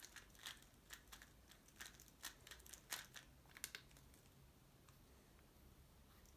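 Tornado V3 Pioneer 3x3 speedcube being turned fast: a rapid, uneven run of light plastic clacks that stops about four seconds in.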